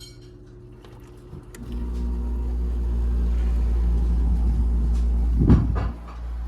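Kenmore (LG) 5,300 BTU window air conditioner starting up: a few light clicks, then the compressor kicks on with a loud, steady low hum. About 5.5 s in it surges loudly, then drops back to a lower, steady running hum: a rough start.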